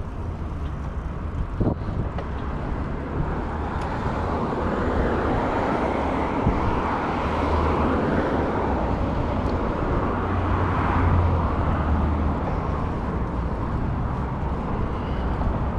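Steady wind rumble and road noise while riding a bicycle, picked up by a chest-mounted camera's microphone, swelling a little midway, with a few light clicks.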